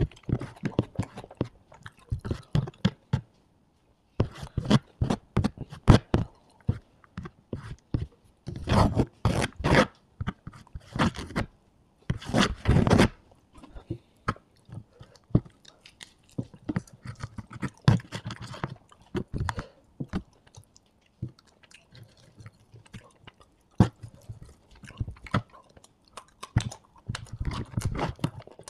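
Close-miked chewing and crunching of fried meat eaten by hand: irregular wet mouth clicks and crunches, coming thickest in runs about a third of the way in.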